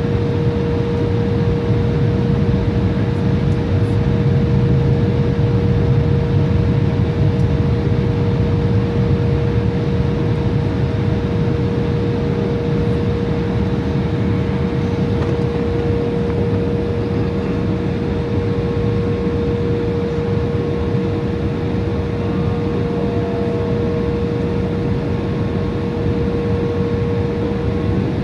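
Steady jet engine and air noise heard inside an airliner cabin, a low rumble with a constant whine over it.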